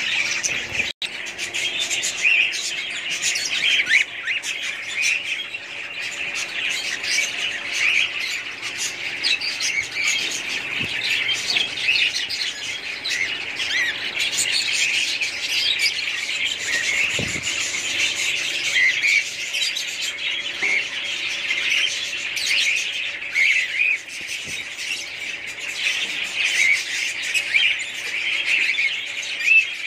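A flock of budgerigars chirping and chattering continuously, many calls overlapping.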